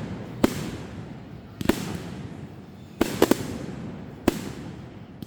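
Fireworks going off: about six sharp bangs, spaced a second or so apart, with three in quick succession about three seconds in. Each bang has a short echoing tail.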